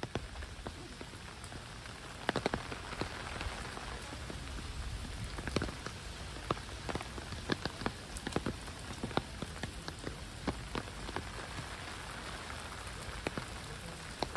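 Heavy rain falling steadily, an even hiss with many sharp, irregular drop impacts close by.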